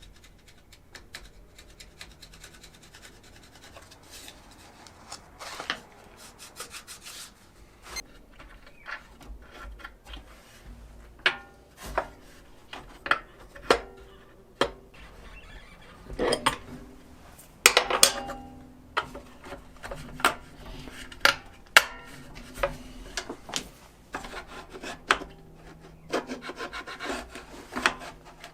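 Hand blade scraping and paring at a composite nail that sits proud of a wooden insert plate: irregular short strokes and sharp clicks, more frequent and louder in the second half.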